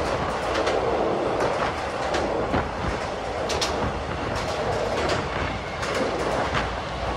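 Passenger train running along the track: a steady rumble of the moving carriage with irregular sharp clicks from the wheels on the rails.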